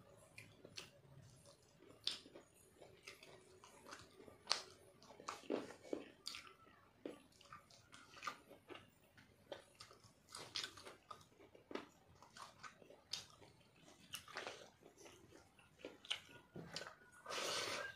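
Close-miked eating sounds of a man eating rice and chicken curry by hand: chewing, with many short, irregular wet smacks and clicks. Near the end there is a louder rush of noise lasting about a second.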